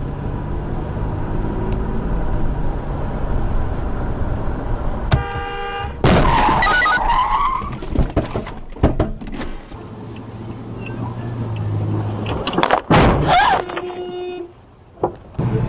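Vehicle engine and road noise with a horn blast about five seconds in and another near the end, broken by loud noisy bursts around six seconds and again about thirteen seconds in.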